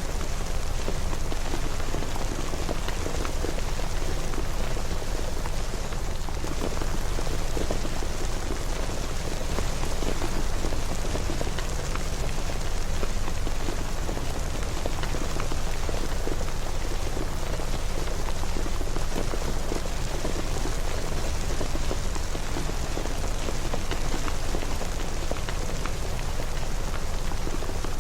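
Steady rain falling and pattering on surfaces, with many fine drop impacts over a constant low rumble.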